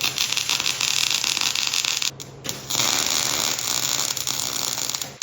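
Welder tack-welding an exhaust pipe clamp: a loud, steady crackling buzz in two runs, with a short break a little after two seconds in.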